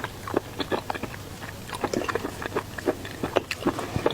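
Close-miked chewing of seafood: irregular wet smacks and small clicks of the mouth as a person bites and chews.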